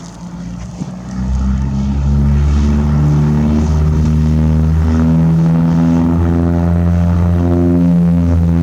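Propeller aircraft engine running, growing much louder about a second in and then holding steady and loud.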